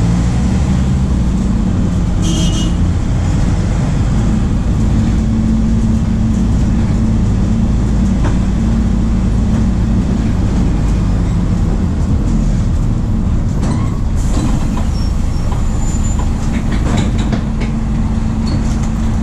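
MAN D0834 four-cylinder turbodiesel of a VW 17.230 OD bus running under way, its engine note shifting in pitch a few times as engine speed changes. Occasional short clicks and rattles over the steady drone.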